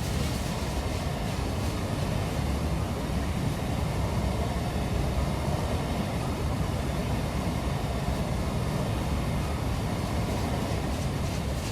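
Train rolling past: a steady rumble of wheels on rail, with no horn.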